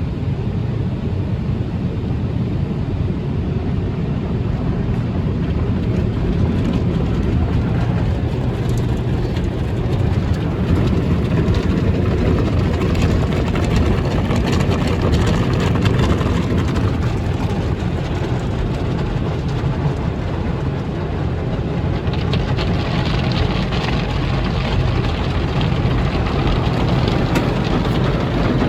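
Automatic tunnel car wash heard from inside the car: the steady, dense rumble and wash of the machinery working over the car, turning hissier over the last several seconds.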